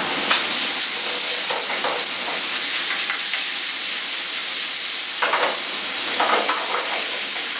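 Diced chicken breast frying in hot oil in a non-stick pan with dried chili peppers and ginger, a steady high sizzle. Short scrapes of a wooden spatula stirring the pan come a few times.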